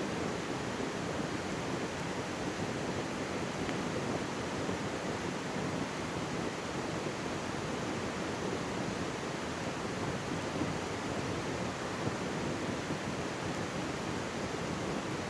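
Mountain stream rushing and babbling steadily right beside the microphone, with a single faint campfire crackle about twelve seconds in.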